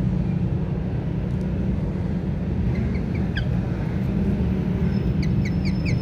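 A steady low rumble throughout, with a bird's faint chirps coming in about halfway. Near the end a quick run of sharp, repeated chirps follows, about four a second.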